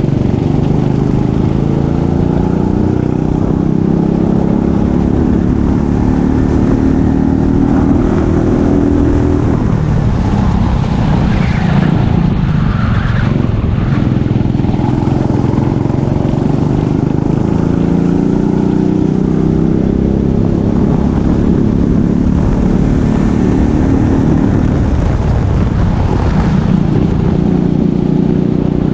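Racing kart engine running at full throttle, its pitch climbing steadily and then dropping off as the throttle is lifted, several times over. About ten seconds in the engine note falls away for a few seconds, with rougher noise, before it builds again.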